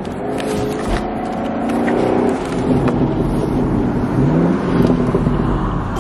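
Car engine accelerating, heard from inside the cabin: it pulls hard, its pitch rising and climbing again after a gear change, getting louder through the middle.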